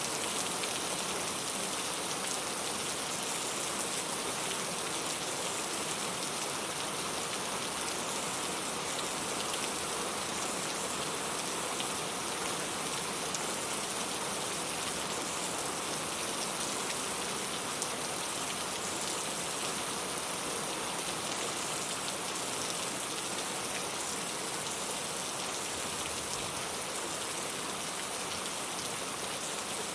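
Steady rain falling and pattering on surfaces, an even hiss of many drops with no pauses or changes.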